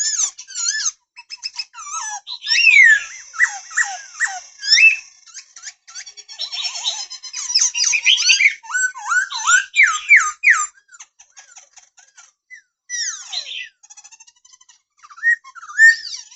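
Black-throated laughingthrush singing: a long, varied run of clear whistles, sliding notes and quick trills, broken by a few short pauses.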